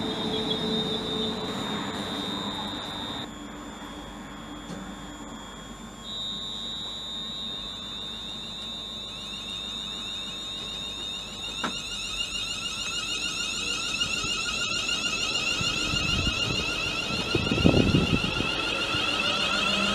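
Electric train's traction whine: steady high-pitched tones, with a second set of tones joining about halfway and a low rumble near the end.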